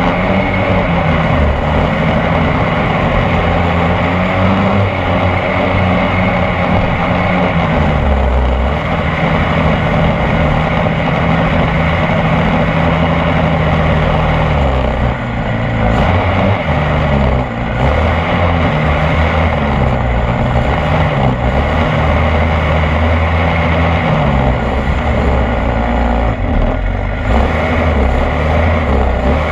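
26cc two-stroke petrol engine of a radio-controlled boat running under power, its pitch shifting up and down several times with the throttle, over a steady rush of noise.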